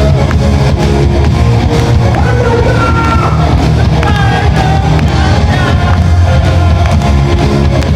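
Live rock band playing loudly: electric guitars, bass and drums under a singer's voice.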